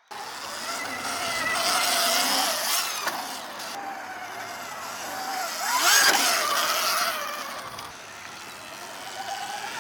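Dirt bikes riding on a track, their motor pitch wavering up and down, with one bike passing close and loudest about six seconds in.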